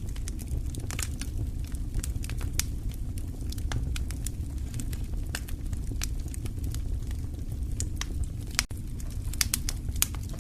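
Wood fire crackling in a fireplace: irregular sharp pops and snaps over a steady low rumble. The sound drops out for an instant near the end.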